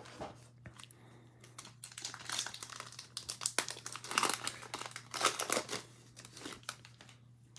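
Crinkling and tearing of trading-card pack wrappers as packs from a mega box are opened and handled: an irregular crackle that is busiest through the middle and fades near the end.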